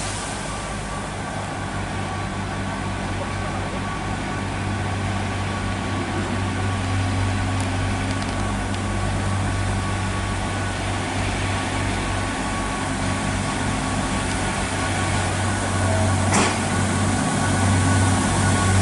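A stationary train idling at a station platform: a steady low engine hum with a faint steady whine above it. A single sharp knock comes about sixteen seconds in.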